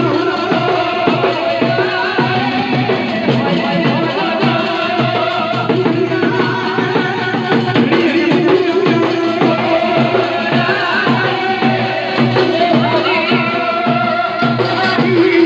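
Dhol drumming in a fast, steady beat under Gujarati folk music with a melody line.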